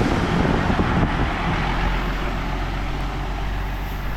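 Large truck driving past through standing floodwater: a low engine rumble under the hiss of tyres spraying water, loudest about the first second and fading as it moves off.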